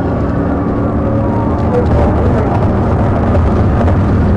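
Steady engine and road noise of a vehicle travelling at high speed.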